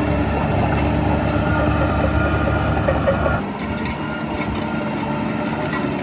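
Heavy diesel engine of earthmoving machinery running steadily. A little over halfway through it turns quieter and loses some of its low rumble.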